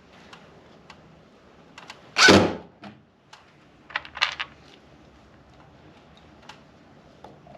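Scattered clicks and knocks of hands-on work, with one short, loud rasping burst about two seconds in and a quick cluster of clicks about two seconds later.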